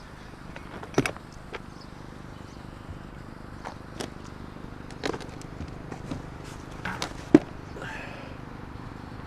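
Scattered short knocks and clicks of hard objects being handled, the sharpest about seven seconds in, over a steady low hum.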